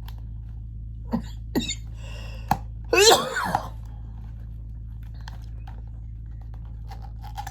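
A woman's single sudden, loud burst of breath and voice, sneeze-like, about three seconds in, after a few small clicks.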